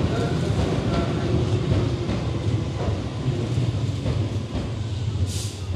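Keihan electric train running along the station platform, its wheels and motors giving a steady low rumble as it slows. A brief hiss sounds near the end.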